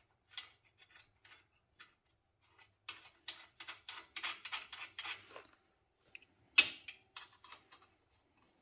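Metal clicks and clinks of bolts, lock nuts and tools being handled while fitting 1/2 inch bolts to a miniature locomotive's jackshaft mount. A quick run of about ten clicks comes around the middle, and one sharp clink comes near the end.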